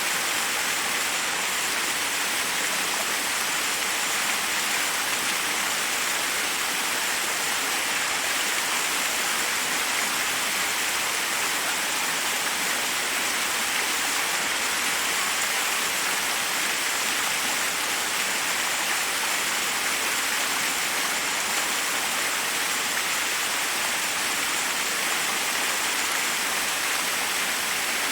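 Waterfall: water rushing over rocks in a steady, unbroken hiss.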